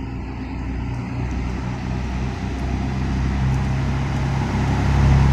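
Heavy vehicle engine running with a steady low hum, growing louder near the end.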